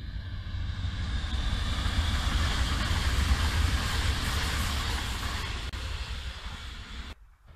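Electric passenger train passing at speed: a rushing, rumbling noise of wheels on rail that swells, peaks two to four seconds in and fades, with a faint whine sliding down in pitch as it nears. The sound cuts off suddenly shortly before the end.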